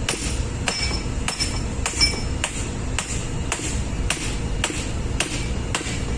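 Hammer blows on steel parts of a ship's main engine fuel injector, struck steadily about once every 0.6 s, some blows leaving a short metallic ring, as the injector nozzle is beaten loose for dismantling. A steady low engine-room drone runs underneath.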